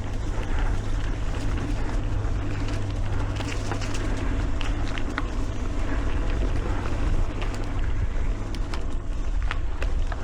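Mountain bike riding along a dirt singletrack trail: a steady rumble of tyres and wind on the microphone, with scattered sharp clicks and rattles from the bike over the rough ground.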